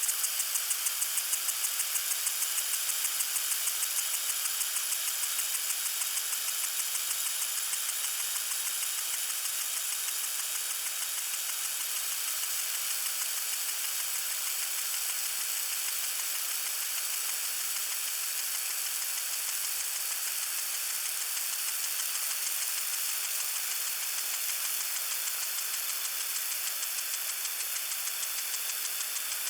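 Water sprinkler spraying: a steady high hiss of water with a fast, even pulsing running through it.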